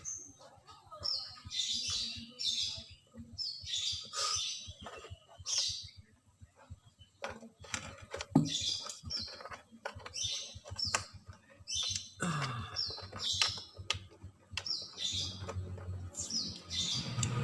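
Birds chirping over and over in short, quick phrases, mixed with sharp clicks and knocks. A low hum comes up near the end.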